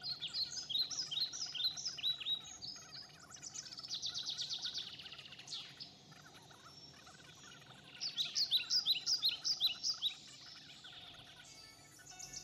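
Birdsong: series of quick, high chirps, each sweeping downward, about five a second, broken by a fast trill in the middle and starting up again near the end.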